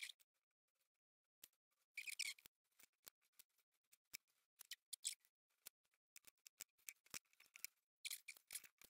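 Faint, scattered snips and clicks of scissors trimming excess silicone rubber from the edges of a two-part mould, in small groups about two seconds in, around four to five seconds, and near the end.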